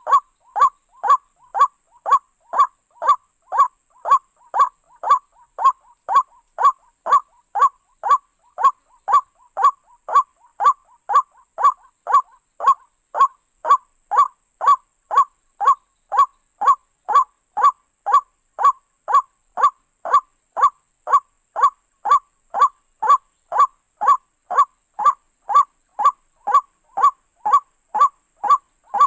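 White-breasted waterhen (ruak-ruak) call, a short call repeated over and over at an even pace of about two calls a second.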